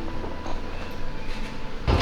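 Low vehicle rumble, then near the end a side-by-side UTV's small engine running, which comes in suddenly and much louder.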